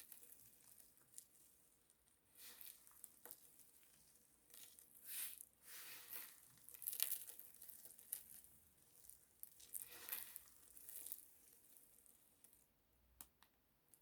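Faint crisp crackling and scraping of a bar of pine soap being cut and crumbled, in a string of irregular short bursts that thin out near the end.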